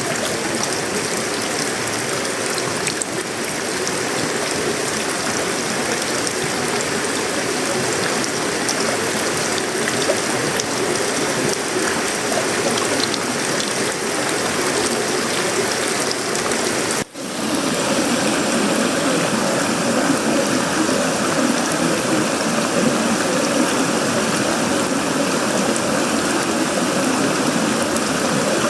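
Steady tropical rain falling on a sheet-metal roof, wood and leaves, a dense patter with no pauses. About seventeen seconds in it cuts out for an instant, then resumes a little fuller and deeper.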